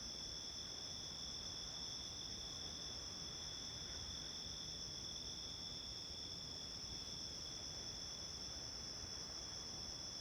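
Summer-night chorus of crickets: a steady, unbroken high-pitched trilling at two pitches, one higher and one a little lower.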